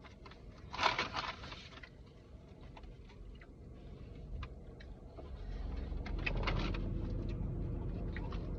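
Eating sounds: small scattered clicks and a brief crunchy rustle about a second in. A steady low hum comes in about halfway through.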